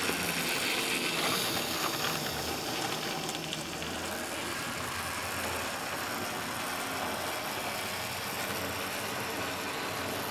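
An N gauge model train running around the track: a steady mechanical whirr from its small electric motor and wheels on the rails.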